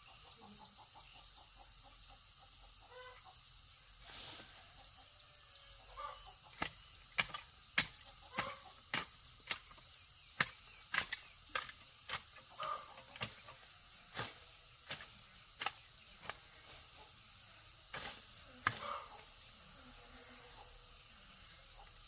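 A run of sharp knocks from a hand tool striking, about one or two a second with short pauses, starting some six seconds in and stopping a few seconds before the end. Under them is a steady high-pitched chorus of insects.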